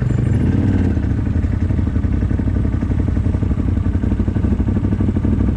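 CFMoto 1000 ATV's V-twin engine running steadily at low speed.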